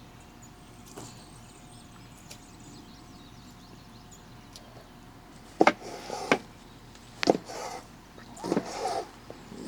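Faint steady background, then, past the middle, a handful of sharp knocks and clicks mixed with short bursts of rustling and clatter, like objects being handled and set down.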